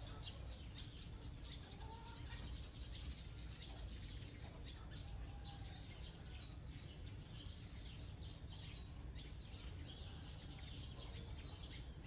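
Small birds chirping and twittering, many short high calls one after another, over a steady low background rumble.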